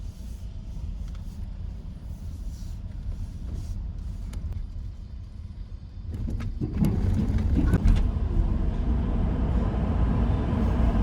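Low, steady vehicle engine rumble that grows clearly louder about two-thirds of the way through, with a few faint clicks.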